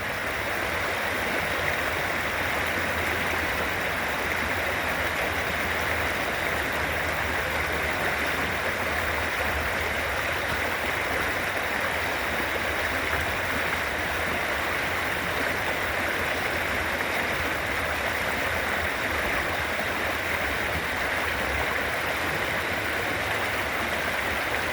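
A stream's running water, a steady even rush with no break.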